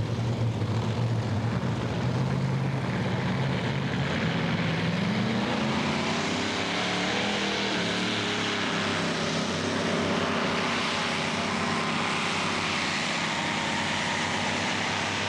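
Competition pulling tractor's engine running hard under full load, its pitch rising about five seconds in and then holding steady.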